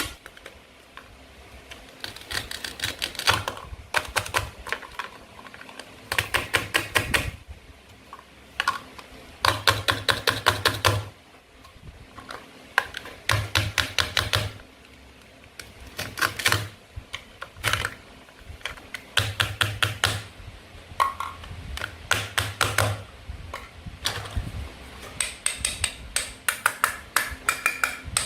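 Toy knife cutting apart plastic and wooden play fruit and vegetables: short bursts of rapid clicking, one every couple of seconds.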